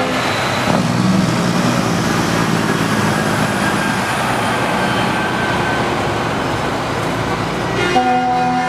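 Tractor-trailer haulers rolling past with their diesel engines running, then an air horn starts blowing a steady held note about eight seconds in.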